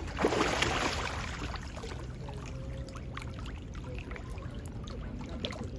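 A burst of splashing water about a quarter second in, dying away over the next second, then a steady low rumble with faint scattered splashes.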